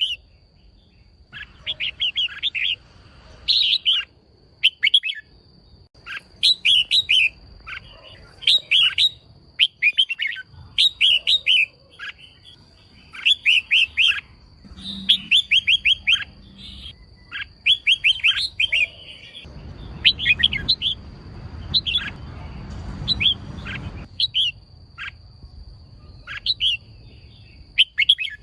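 Female red-whiskered bulbul calling: repeated bursts of short, quick chirps, each burst a few notes, over a faint steady high-pitched tone. A low rumble runs for a few seconds past the middle.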